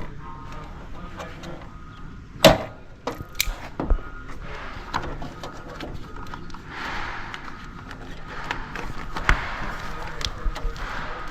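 Scattered clicks and knocks from hands-on work, with one sharp loud knock about two and a half seconds in and stretches of rustling.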